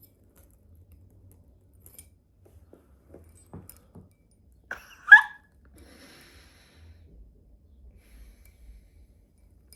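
Faint small clicks of a metal bag charm being handled and clipped onto a handbag, with one short, loud vocal noise about five seconds in.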